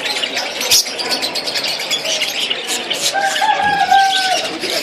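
A crowd of caged parrots chirping and chattering together in rapid high notes, with one longer held call about three seconds in.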